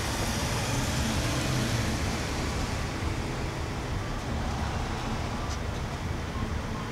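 1972 Dodge Challenger's engine idling, a steady low rumble with an uneven pulse, heard up close through the front grille.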